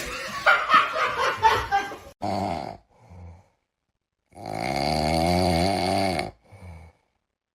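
A noisy jumble of clatter and voices, then an animal's low, wavering vocal calls: a short one, a faint one, then one long call of about two seconds, each cut off sharply.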